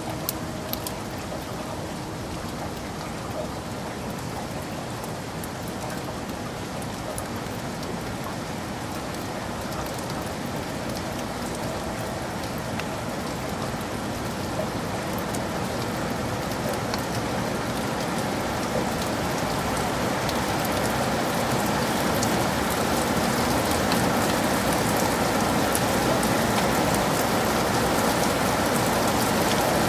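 Heavy rain falling in a forest: a steady wash of rain with scattered individual drops ticking close by, growing gradually louder.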